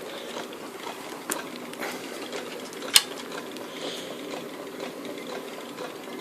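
Stirling engine running and driving a generator, a steady mechanical clatter of its moving parts, with one sharp click about three seconds in.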